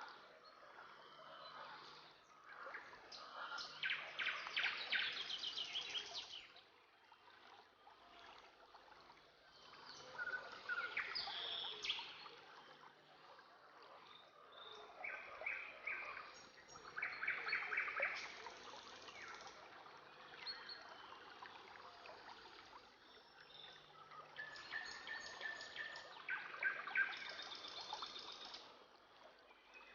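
Rainforest-style ambience: bursts of rapid chirping and pulsed bird-like calls over a steady trickle of water.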